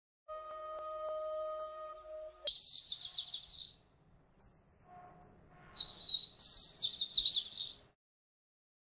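A steady humming tone lasting about two seconds, then two bouts of rapid high chirping trills like bird song, with a few short chirps between them.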